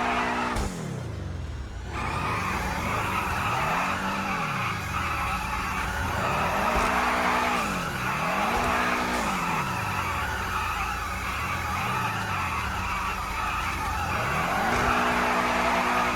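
A car's tyres squealing continuously in a burnout or skid, with the engine revving up and down over and over. The squeal briefly drops away about a second in, then resumes.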